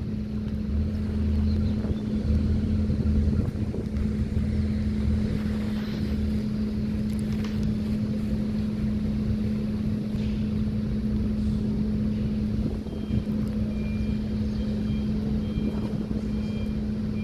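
Outdoor city ambience: a steady low hum of a motor, with rumbling traffic and wind noise on the microphone. Faint, repeated short high beeps come in near the end.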